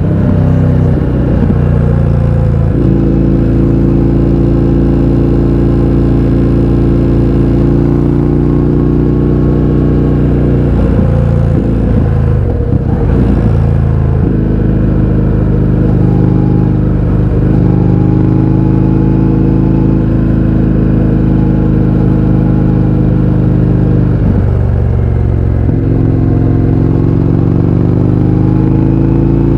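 Indian FTR 1200's V-twin engine running through an Akrapovič exhaust with the baffles removed, loud and steady at cruising revs. The engine note changes pitch a few times, most clearly between about 11 and 14 seconds in, where it drops and then climbs again, and once more near 25 seconds.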